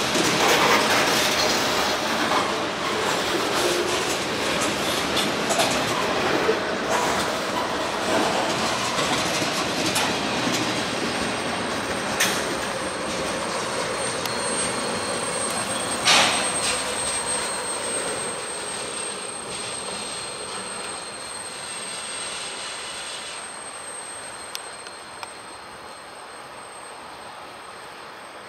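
Covered hopper cars of a freight train rolling past, wheels clicking over the rail joints with a thin steady high-pitched wheel squeal and a sharp clank about sixteen seconds in. The rolling noise fades through the second half as the last cars pull away.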